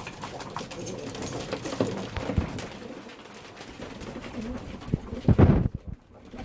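Racing pigeons cooing in a loft, with small clicks and shuffles among them. A loud low flurry about five seconds in is the loudest moment.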